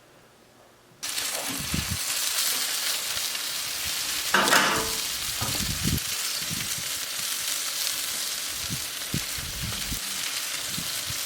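Chicken leg quarters sizzling as they cook: a steady hiss with scattered pops and crackles. It starts suddenly about a second in. A brief pitched sound comes about four and a half seconds in.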